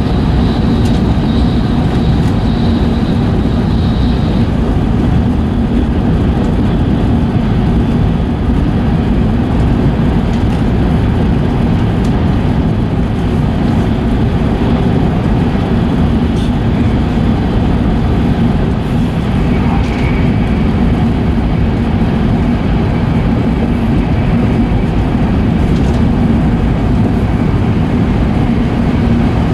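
Running noise of an E5 series Shinkansen train, heard from inside the passenger car: a steady, heavy rumble of wheels on rail with a constant low hum. A faint high whine fades out in the first few seconds.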